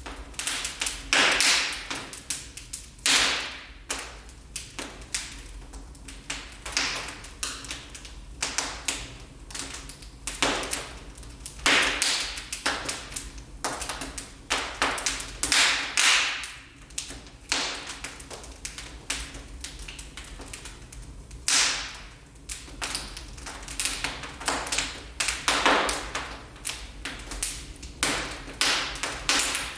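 Wood fire burning in a fireplace, crackling and popping irregularly, with a few louder snaps among the smaller crackles.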